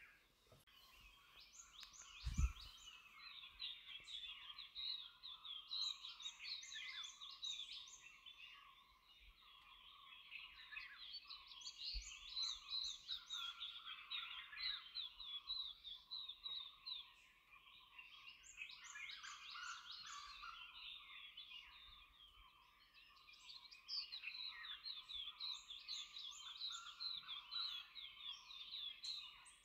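Faint chorus of wild birds calling, in phrases of quick repeated chirps a few seconds long, with a single low thump about two seconds in.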